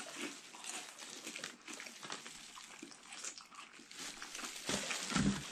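Close-up chewing of crispy fried shrimp and squid, with crinkling of the paper wrapper and plastic gloves as the pieces are handled: irregular small crackles and rustles.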